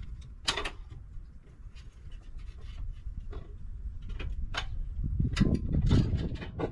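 Irregular sharp knocks and clicks of hands and tools working on boat parts, with a low rumble of handling noise that grows stronger in the second half.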